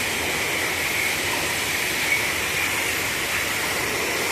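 Steady rushing hiss of high-pressure water spray at a truck wash, unbroken throughout.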